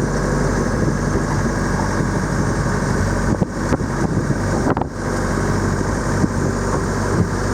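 Motorboat engine running steadily under way, a continuous low hum.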